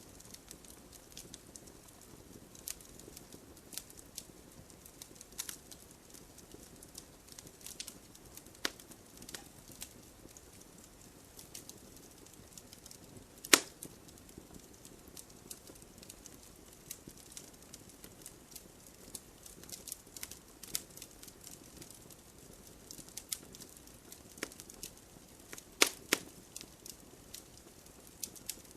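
Wood fire in a fireplace crackling, with scattered sharp pops over a low hiss. The loudest pop comes about halfway through, and two more come close together near the end.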